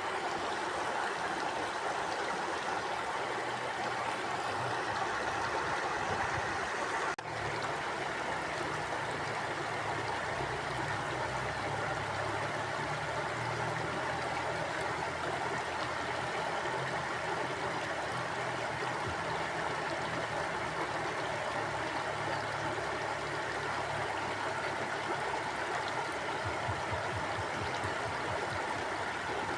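A river flowing steadily, a continuous rushing and gurgling of water, with a momentary dropout about seven seconds in.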